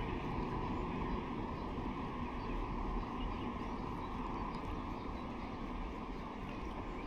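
Steady rush of a shallow, fast-flowing river's current.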